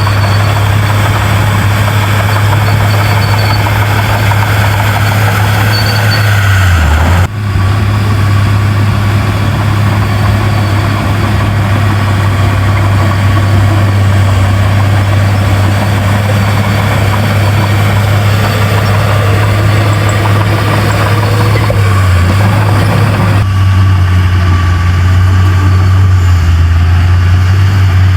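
Heavy diesel engine of earthmoving machinery running steadily with a deep, even drone, briefly dipping about seven seconds in.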